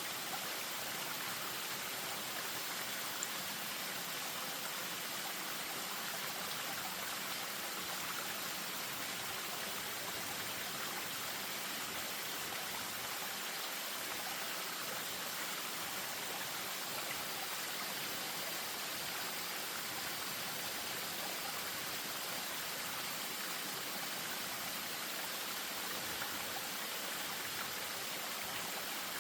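Spring-fed stream running over a small waterfall, a steady, even rush of water.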